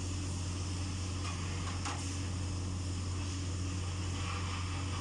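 A steady low machine hum, with a faint click about two seconds in.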